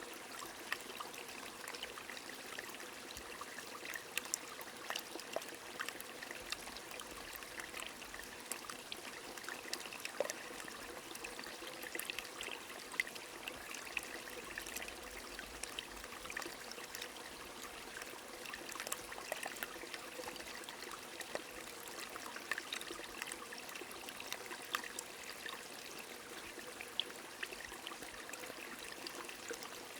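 A small stream trickling and babbling steadily, with many light drops or splashes ticking across it, as of gentle rain.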